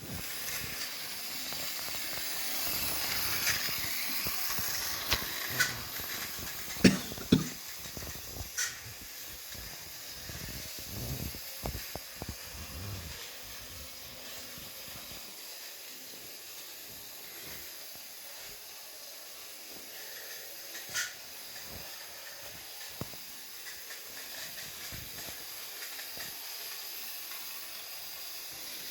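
Model railway train running along the track, a steady hiss with a few sharp clicks and knocks, mostly in the first third and once more past the middle.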